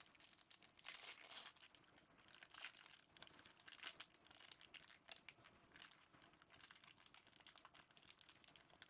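A 1997-98 Fleer Ultra basketball card pack wrapper is handled and worked open by hand: a run of soft, crisp crinkling and crackling.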